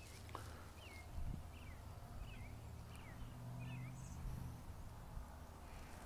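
Faint bird calls: a run of about six short, falling chirps, roughly two a second, over a faint low hum.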